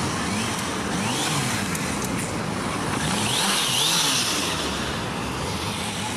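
Motorcycle engine revving up and down again and again, its pitch rising and falling many times over, under a wash of street noise.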